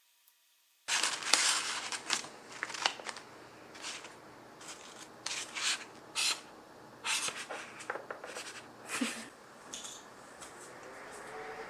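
Close, irregular rustles and clicks of small objects or paper being handled, starting about a second in after near silence.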